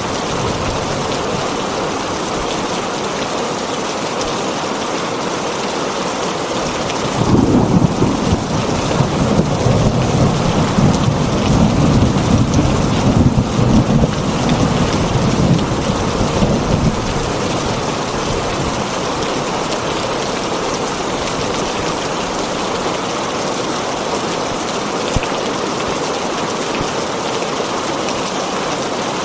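Rain falling steadily on a tin roof, with a long rumble of thunder starting about seven seconds in and fading out some ten seconds later.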